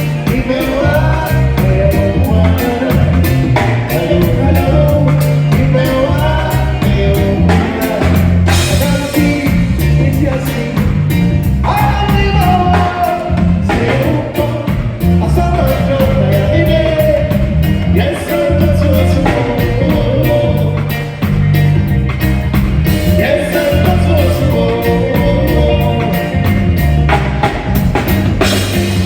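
Live band playing a song with a lead singer, drums and a prominent stepping bass line played on a keyboard.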